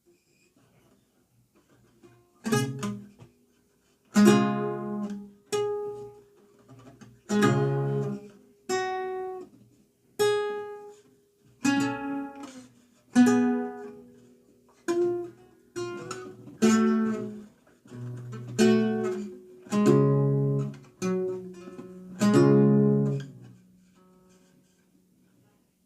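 Renaissance lute played solo: a slow passage of plucked chords and single notes, each struck and left to ring and fade. It starts a couple of seconds in and dies away on a held note near the end.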